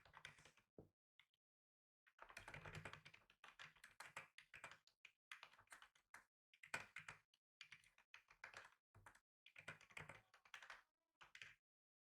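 Faint computer keyboard typing in short runs of keystrokes, broken by brief pauses, the longest a little after the start.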